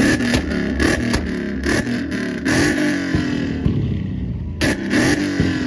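Car engine revving hard in repeated quick blips, its pitch rising and falling with each surge.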